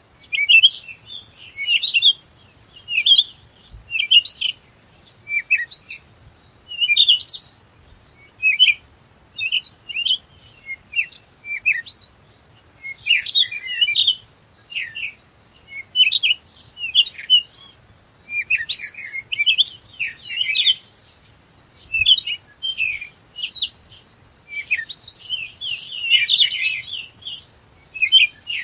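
Small birds chirping: short, high chirps in quick clusters, about one cluster a second, without a break.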